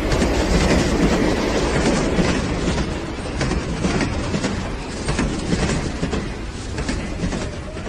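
Moving passenger train heard from its open doorway as it crosses a bridge: the steady rumble and rattle of the coaches, with rapid wheel clicks over the rails, slowly getting quieter.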